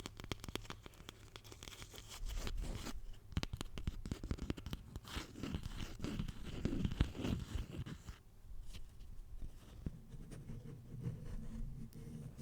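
Close-miked ASMR trigger sounds: dense crackling, scratching and small clicks, thinning out and getting quieter about eight seconds in.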